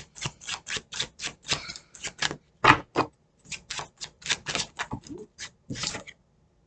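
Tarot cards being shuffled by hand: a quick run of sharp card snaps, about four or five a second, that stops near the end.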